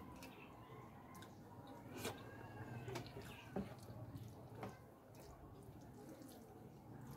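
Wet mouth clicks and smacks of someone chewing a handful of saucy rice, a few sharp smacks at irregular intervals.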